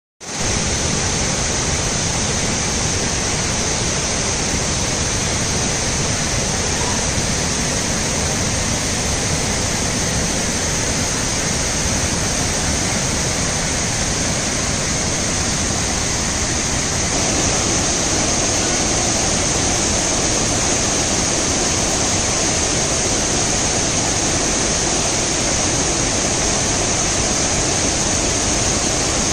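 Waterfall rushing: a loud, steady, even wash of falling water that cuts in suddenly at the start.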